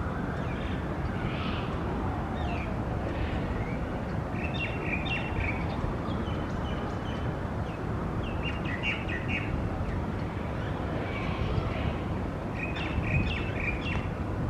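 Birds chirping in short bursts, three or four clusters of calls, over a steady low rumble of city traffic with a vehicle or two passing.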